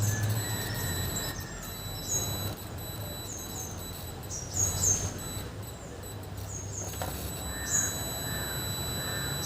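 Small birds chirping, many short high chirps each dropping in pitch, over a low steady electrical hum and a faint steady high whine.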